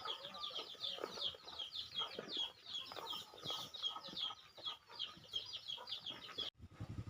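Birds chirping: a rapid run of high, falling cheeps, several a second, which cuts off abruptly near the end.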